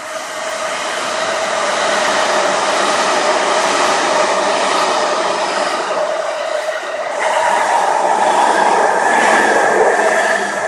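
Electric express train passing through a station at speed without stopping: a loud rush of wheels on rail that builds over the first couple of seconds as it arrives and stays loud as the cars go by, loudest near the end.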